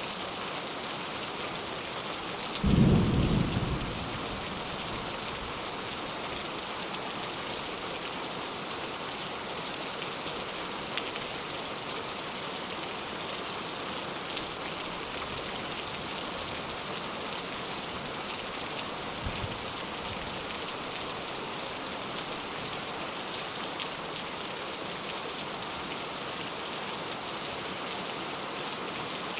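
Steady rain falling on a porch, with a short, loud rumble of thunder about three seconds in and a much fainter one near twenty seconds in.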